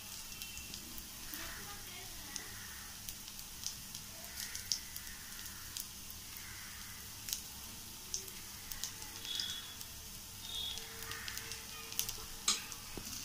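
A dosa sizzling faintly on a hot tawa over a medium flame, with light scraping and scattered clicks of a metal spoon spreading stuffing across it.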